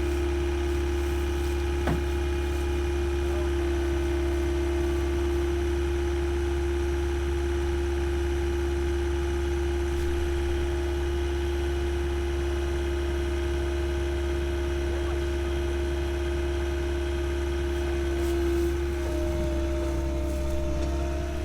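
A steady, unchanging engine hum, as of a vehicle idling.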